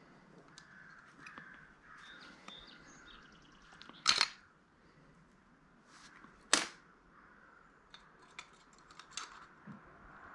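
Small metal parts from a pulled-apart handheld scanner being handled and set down: two sharp clinks, about four and six and a half seconds in, with a few lighter clicks near the end.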